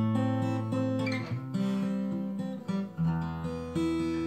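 Acoustic guitar playing the opening of a scout campfire song: chords ringing and changing about once a second.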